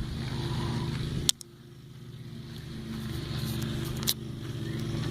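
Engine running steadily. About a second in there is a sharp click, after which the engine sound drops much quieter and slowly builds back up.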